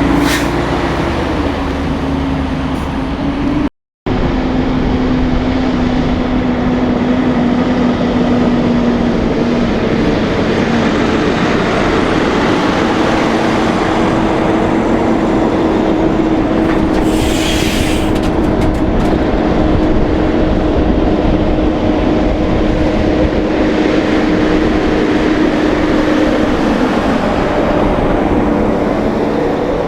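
Heavy diesel semi trucks running past, with steady engine drone and road noise. The sound cuts out for a moment just before four seconds in, and a short hiss comes about seventeen seconds in.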